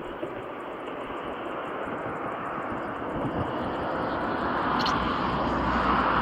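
A distant rushing engine noise that grows steadily louder. Behind it is a faint, even, high-pitched ticking that drops out about two-thirds of the way through.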